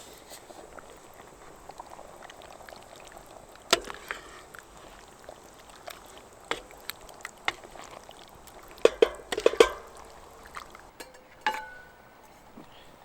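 Camp cookware and utensils clinking and knocking against each other, with a quick run of clatters about nine seconds in and a ringing metallic clink soon after, over a low steady background.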